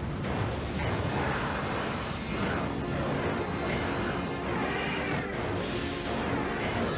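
Dramatic cartoon action music over rushing wind and crash sound effects: an animated wind-power attack being unleashed.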